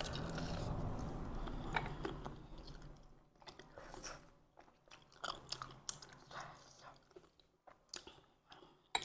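Close-miked chewing and biting as a person eats bún riêu noodle soup, with wet mouth sounds and small clicks. A denser, louder stretch of eating noise comes in the first two or three seconds.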